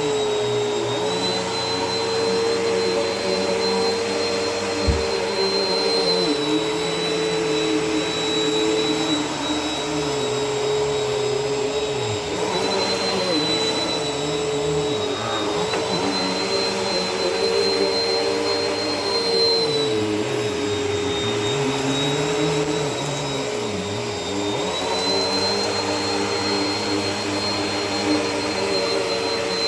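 Bissell vacuum cleaner running on carpet, a steady motor whine whose pitch dips slightly now and then as it is worked back and forth. One short low thump about five seconds in.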